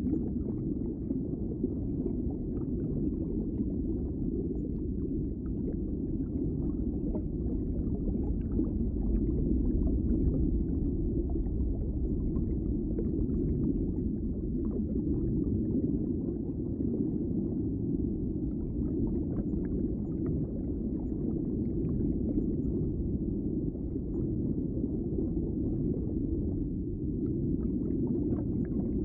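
Underwater ambience: a steady, low, muffled rush of water, with faint scattered clicks and crackles over it.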